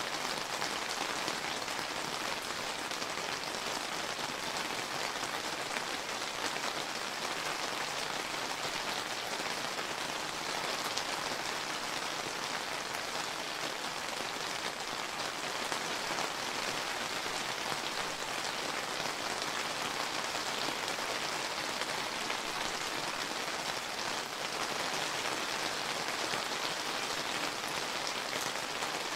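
Steady summer rain falling on surfaces, a dense, even patter of many drops without change.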